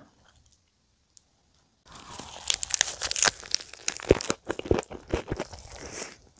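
Close-miked biting and chewing of a perilla-leaf ssam wrapped around spicy stir-fried chicken (dakgalbi). It is near quiet at first, then from about two seconds in there is loud, dense crunching of the fresh leaf, with sharp wet crunches as the mouthful is chewed.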